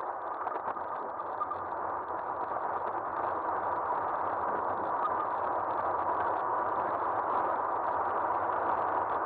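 Steady rushing wind and road noise from an Aostirmotor S17 e-bike being ridden, picked up by a cheap action camera mounted on the front of the bike, growing slightly louder near the end.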